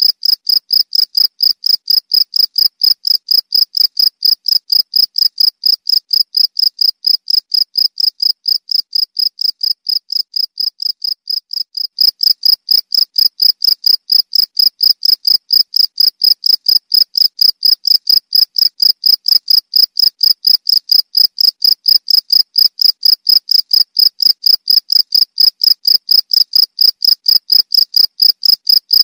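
Cricket (jangkrik) chirping loudly and steadily, an even run of rapid high-pitched chirps, several a second. The loudness sags a little, then jumps back up about twelve seconds in.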